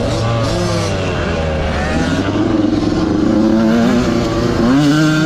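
Dirt bike engine revving, its pitch rising and falling repeatedly as the throttle is worked.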